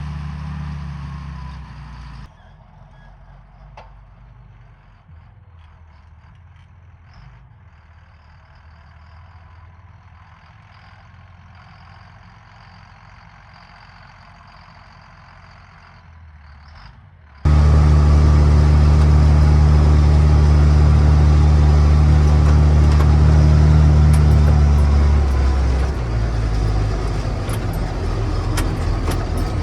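John Deere 7800 tractor's six-cylinder diesel engine working while pulling a disc harrow. The engine drone is heard briefly, drops to a faint, distant sound after a sudden cut, and returns loud and close about two-thirds of the way through with a steady low drone that falls in pitch and level near the end.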